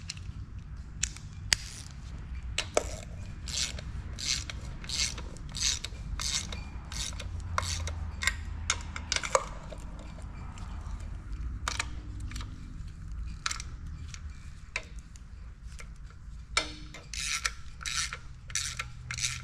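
Hand tools working on metal engine parts: a run of short, raspy scraping or ratcheting strokes, irregular at roughly one or two a second, easing off for a few seconds in the middle and then picking up again near the end.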